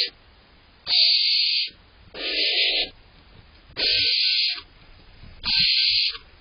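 Barn owl owlets giving their harsh hissing begging calls: four hisses of just under a second each, about one every second and a half.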